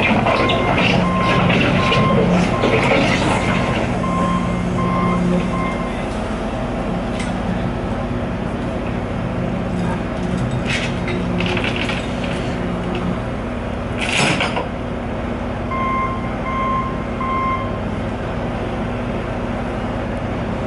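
Heavy road-construction machinery running with a steady engine drone, its backup alarm beeping repeatedly for the first six seconds and again briefly about sixteen seconds in. Scraping and clattering accompany it early on, and a sharp clank comes about fourteen seconds in.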